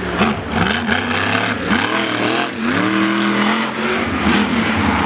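A loud race vehicle engine revving, its pitch swinging up and down several times in quick succession and then holding high for about a second.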